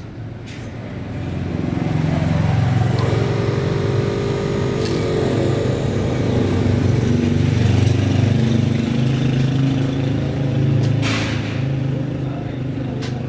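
An engine running steadily, getting louder about two seconds in and holding, with a brief sharp noise near the end.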